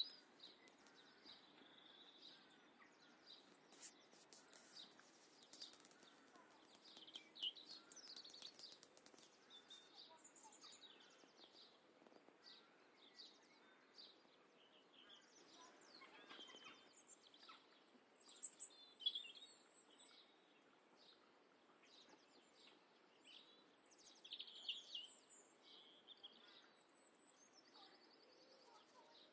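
Faint birdsong: birds chirping in short, scattered calls over a low outdoor hiss, with a few louder bursts of chirping.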